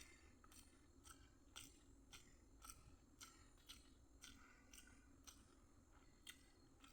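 Faint close-miked chewing of fried rice and paneer masala: short wet mouth clicks, about two a second.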